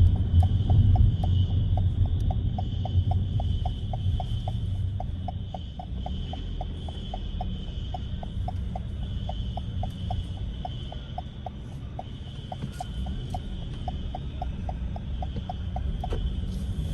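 Car turn-signal indicator clicking steadily, about three clicks a second, over the low rumble of the car running at low speed in city traffic.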